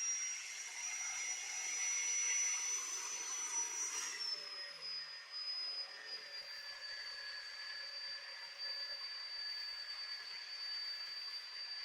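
Electric motor of a cut-off saw rigged as a table saw, running with a steady high whine. About four seconds in the whine drops in pitch and holds there.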